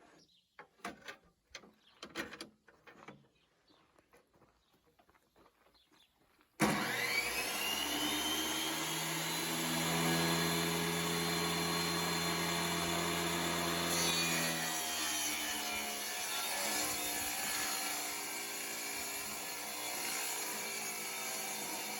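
A few faint clicks, then a table saw switches on about six seconds in and whines up to speed. It cuts a pallet board for about six seconds, the motor pulling down under the load, then runs on freely. The cut trues up the board's edge along a clamped guide.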